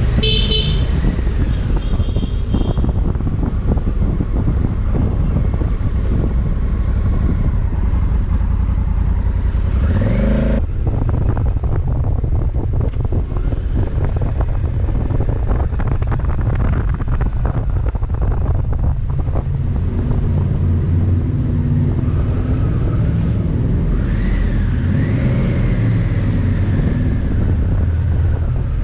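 Adventure motorcycle being ridden, its twin-cylinder engine running with heavy wind noise on the microphone. There are a couple of short high beeps near the start, and the engine rises in pitch just before about ten seconds in.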